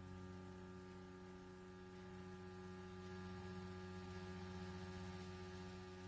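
A steady electrical hum holding one low pitch with a row of fainter overtones above it, unchanging throughout.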